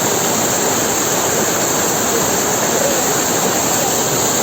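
Waterfall rushing steadily: a loud, even noise of falling water.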